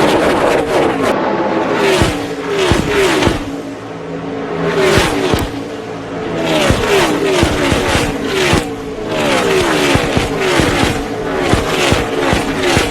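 NASCAR Cup cars' V8 engines at full throttle as a pack of cars passes one after another, each engine note dropping in pitch as it goes by.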